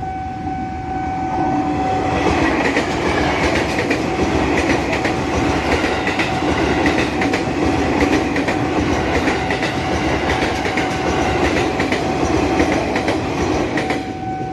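A commuter electric multiple unit passing over a level crossing: wheels clattering over rail joints with a rush of wheel-on-rail noise, building about two seconds in and dying away near the end. Throughout, the crossing's warning alarm holds a steady high tone.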